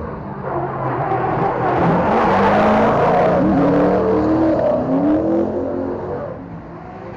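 Drift car's engine revving up and down several times with a rush of tyre noise, loudest through the middle, then fading as the car moves away.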